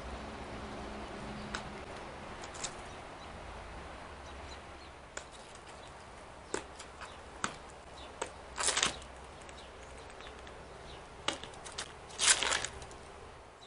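Scattered sharp taps and clicks from a California scrub jay picking over and shifting in-shell peanuts, with two short bursts of rattling clatter as the shells are tossed about, about two thirds of the way in and near the end. A faint steady hum sits underneath.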